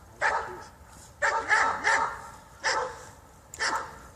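A dog barking repeatedly, about six short barks in four seconds, three of them in quick succession about a second in.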